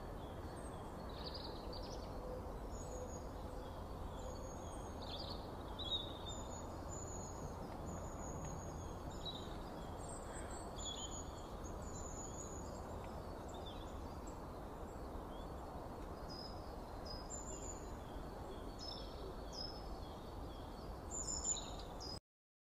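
Small birds giving many short, high chirps and calls, scattered irregularly over a steady low rumble of outdoor background noise. The sound cuts off abruptly near the end.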